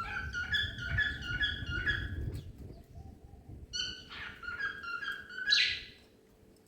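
Cockatiel whistling its song in quick runs of short, repeated notes, with a pause in the middle and a loud harsh, raspy note near the end.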